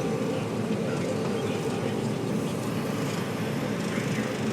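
John Deere combine running steadily while harvesting corn: a dense, even mechanical drone with faint steady tones above it.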